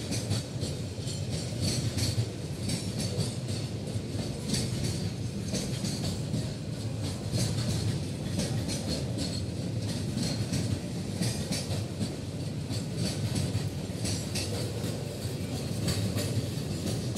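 Container freight train rolling past: a steady low rumble of flat-wagon wheels on the rails, with a continual clickety-clack of clicks as the wheels cross rail joints.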